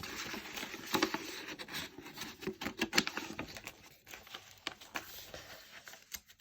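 Paper and card being handled: rustling and light ticks as the pages, tags and postcards of a handmade junk journal are moved, busy at first and sparser near the end.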